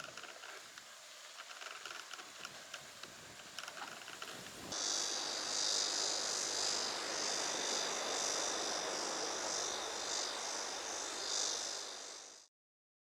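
Faint scattered clicks, then, about five seconds in, a loud chorus of insects starts abruptly: a high, steady buzzing that swells and dips slightly. It cuts off suddenly near the end.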